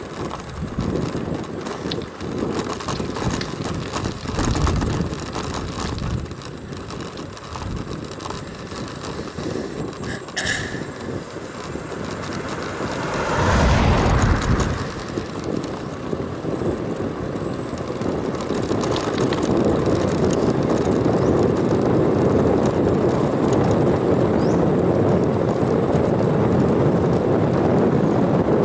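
Wind rushing over the microphone and tyre noise from a bicycle riding along a road. There is a louder rush about halfway through, and the noise grows steadier and louder in the last third.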